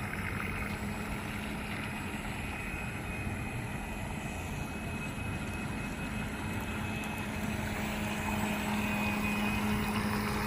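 Radio-controlled model boat's electric motor and propeller running steadily, a continuous hum that grows a little louder near the end.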